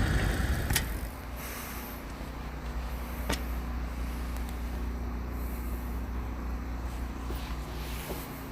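Hyundai Porter II Electric truck driving, its electric drive giving no engine sound: a steady low road and tyre rumble with a faint steady hum, louder for the first second. Two sharp clicks, about one second and three and a half seconds in.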